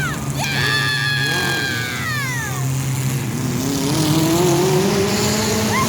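Demolition derby compact cars' engines revving over a steady low drone, with high-pitched squeals that slide down in pitch in the first half and one engine note rising steadily in the second half.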